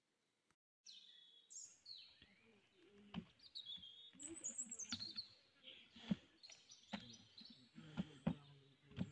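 Faint birds chirping, with a few soft knocks. The first second is dead silent before the sound cuts in.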